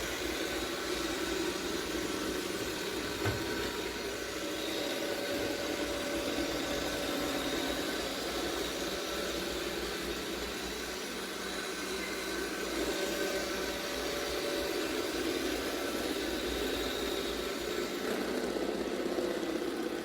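iRobot Roomba Vac Essential (Q0120) robot vacuum running: a steady whirring hum from its motor with faint steady whines above it. There is a single soft knock about three seconds in.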